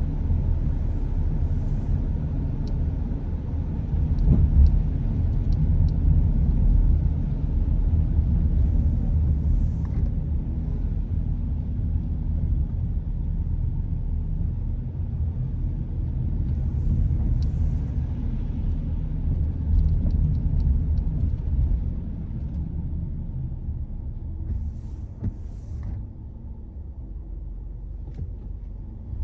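Steady low rumble of a car being driven, engine and road noise as heard from inside the car, with a few faint ticks; it eases off noticeably about three-quarters of the way through.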